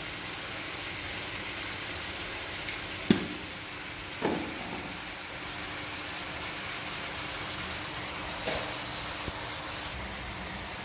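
Salmon head pieces sizzling steadily as they fry in oil in a wok. About three seconds in, a utensil knocks sharply against the pan twice, a second apart, and the second knock rings briefly.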